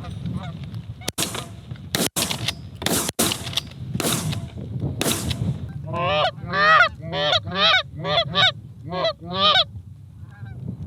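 Geese honking: a fast run of about eight loud honks a little past halfway through, each bending up and down in pitch. Before them come several short, sharp rushing sounds.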